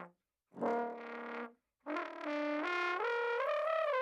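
Trombone played with flutter tongue: a short note about half a second in, then a longer phrase of notes stepping upward and sliding down into a held note near the end.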